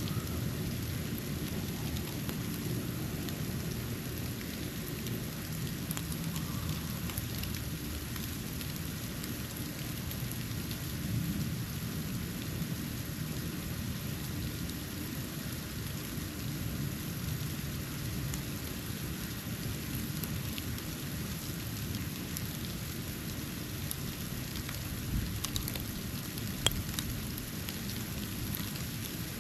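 Snow falling onto a porch: a steady, even hiss with a low rumble underneath, and a few sharp ticks near the end.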